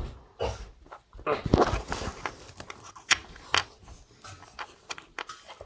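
Scattered light clicks and knocks with brief rustling, irregular, with two sharper clicks about three seconds in.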